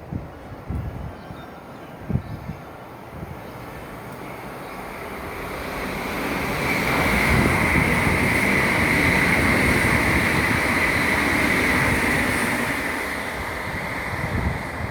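MTR Airport Express CAF train running through a station platform without stopping. A rumble builds up, a steady high whine runs through the loudest middle stretch, and then the sound eases off as the train passes.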